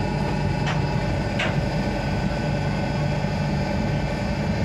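Passenger train running slowly into a station, heard from inside the coach: a steady low rumble. Two short high squeaks come about a second in.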